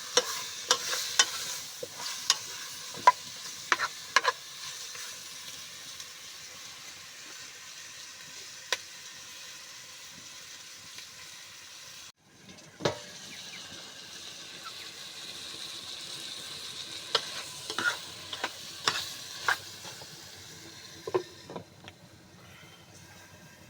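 Food sizzling in hot oil in a cooking pot while a spoon stirs, clinking and scraping against the pot at irregular moments. The sizzle breaks off briefly about halfway, then resumes.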